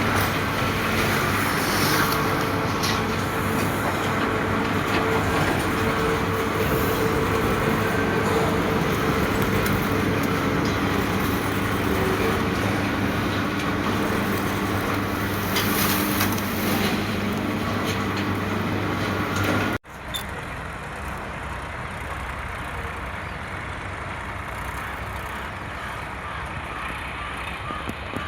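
Tractor's diesel engine running steadily, with a low droning tone. About two-thirds of the way through the sound cuts off abruptly and a quieter, steadier engine noise takes over.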